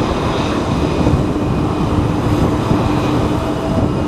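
Strong typhoon wind buffeting the microphone: a loud, irregular low rumble, with a faint steady hum underneath.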